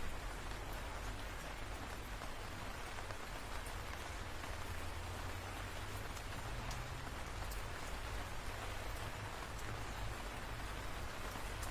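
Rain falling steadily, with scattered sharp drop ticks and a low rumble underneath.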